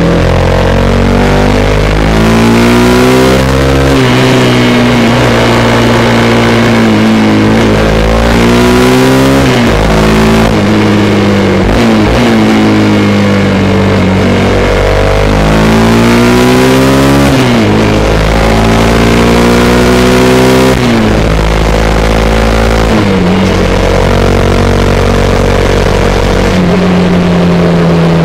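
Suzuki V-Strom 250SX's single-cylinder engine pulling under acceleration. Its pitch climbs and drops sharply at each upshift several times over, then holds steady near the end, with wind rush over it.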